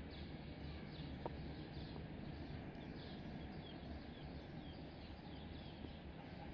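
Small birds chirping faintly, short falling chirps about twice a second, over a low steady rumble of outdoor background noise.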